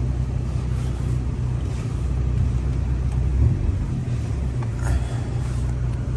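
Volkswagen Passat's engine running steadily with a low hum, the car stuck in deep snow.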